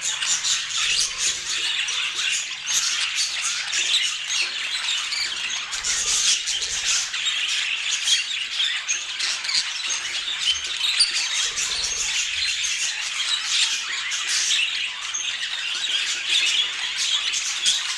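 Budgerigars chattering without a break, many short chirps and calls overlapping at once.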